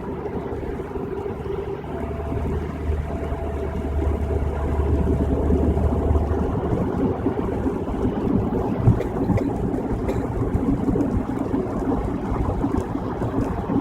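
Steady road and tyre noise from inside a car driving on a rain-wet freeway. A low hum joins about two seconds in and fades out a few seconds later.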